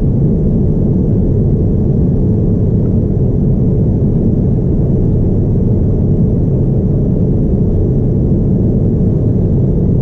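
Steady, loud cabin rumble inside a Boeing 787-9 airliner in flight: engine and airflow noise heard from a seat over the wing, even throughout with a faint high steady whine above it.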